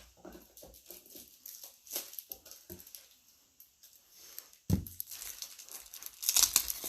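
Handling noises of trading cards and plastic card sleeves: scattered rustles and light clicks, a single knock about five seconds in, and a louder burst of rustling near the end.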